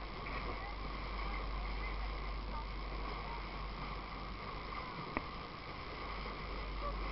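Steady water noise around a fishing boat, with a low hum underneath and a single sharp knock about five seconds in.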